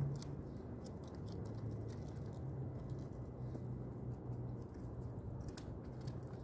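Pigeons cooing, a low wavering hum, with scattered faint ticks.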